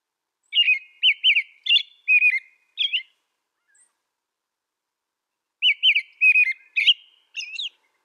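American robin singing: a run of about six short, clear whistled phrases that slur up and down, a pause of about two and a half seconds, then another run of about five phrases.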